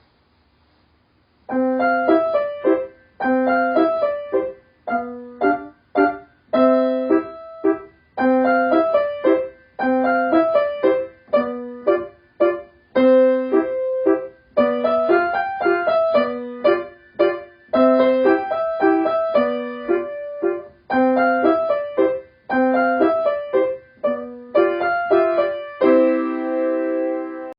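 Background piano music: a melody in short phrases of struck notes, starting about a second and a half in and ending on a held chord.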